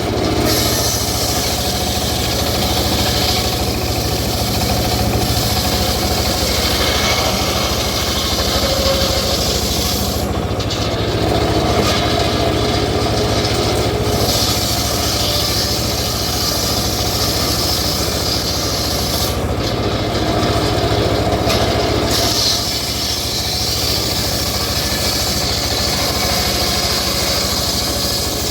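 Engine-driven saw running steadily while cutting teak timber, its engine note constant underneath. The higher sawing noise shifts twice, about ten and twenty seconds in.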